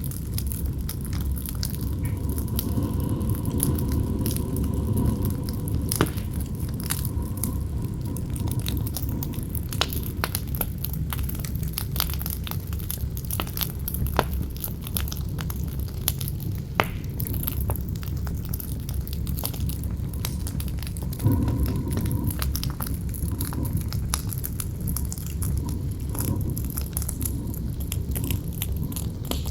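Campfire burning with frequent sharp crackles and pops over a steady low rumble of wind, which rises into a faint howl now and then.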